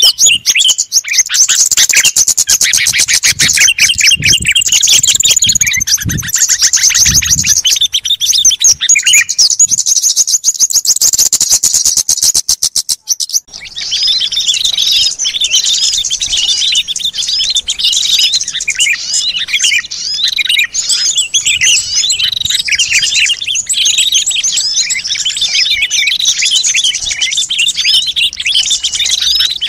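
A dense chorus of many small songbirds chirping and twittering rapidly over one another, a bird-luring recording meant to draw small wild birds in. About 13 seconds in the chorus cuts off abruptly and a different chorus of chirps starts; a few low thumps sound under the birds in the first half.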